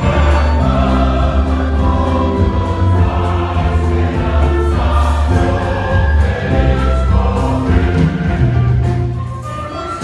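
Large church choir singing a gospel hymn over a full, steady instrumental accompaniment with a strong bass.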